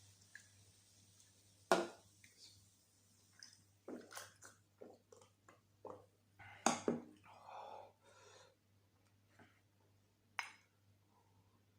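Close-miked chewing and wet mouth sounds of someone eating mutton curry with rice, in irregular bursts with a few sharp clicks. The loudest clicks come about two seconds in and just past the middle.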